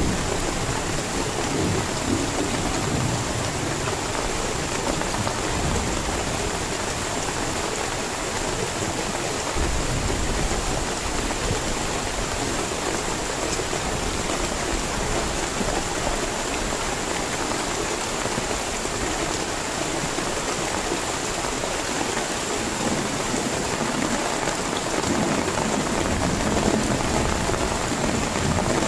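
Heavy rain pouring steadily, with low rumbles of thunder about ten seconds in and again later on.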